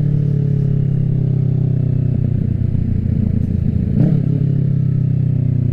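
Kawasaki Ninja 650 parallel-twin engine running through an aftermarket M4 full exhaust system. It holds a steady pitch throughout.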